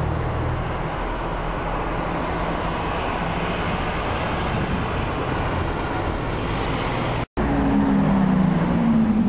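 Street traffic noise with a car engine running as a silver Ferrari V12 grand tourer drives past. After an abrupt cut about seven seconds in, a Ferrari F430's V8 runs at low revs, a steady note that dips slightly in pitch.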